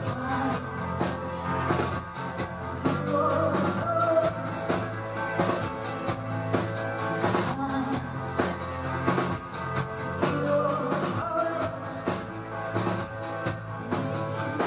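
Live band playing a pop-rock song, with a steady drum-kit beat under sustained chords from the other instruments.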